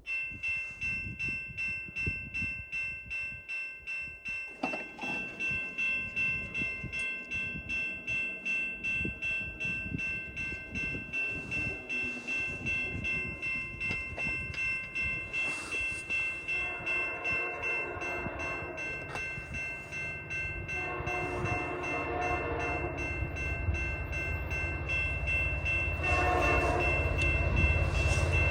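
Grade-crossing bell ringing about twice a second as CN 8957 approaches, then the locomotive's P3 air horn sounding in three long blasts from about halfway through. The low rumble of the oncoming train grows louder near the end.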